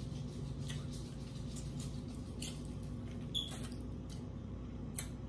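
A person eating barbecue pork ribs: quiet chewing with a few small mouth clicks and smacks, the sharpest about five seconds in, over a steady low hum.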